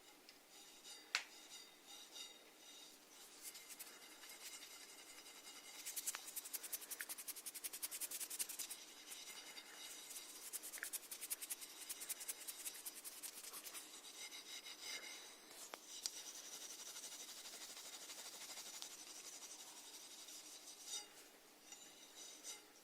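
Snails making a faint, fine rasping and scratching made of tiny crackling clicks, densest and quickest about six seconds in, with a few sharper single clicks.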